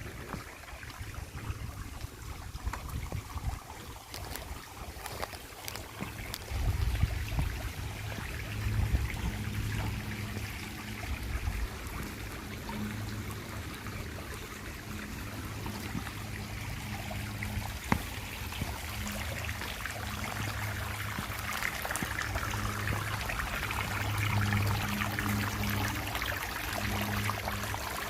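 Small stream trickling and splashing over rocks, with a low hum that comes and goes underneath and a single sharp click about two-thirds of the way through.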